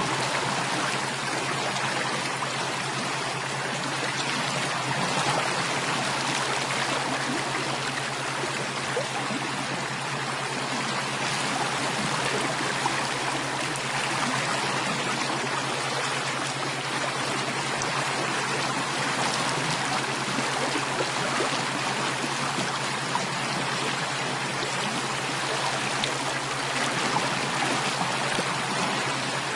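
Steady running water of a flowing stream, an even rushing with no breaks.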